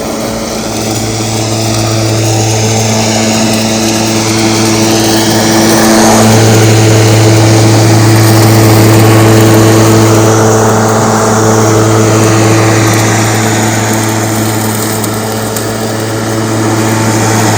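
Milwaukee M18 battery-powered lawn mower running under load as it mows over leaves: a loud, steady electric-motor hum with the whir of the spinning blade, growing somewhat louder a couple of seconds in.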